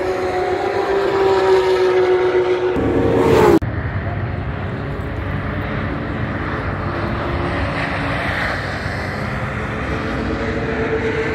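Sports car engines on a racing circuit. One engine note rises in pitch as the car accelerates and cuts off abruptly about three and a half seconds in. After that, fainter engine notes run over a steady rushing noise, with another engine note near the end.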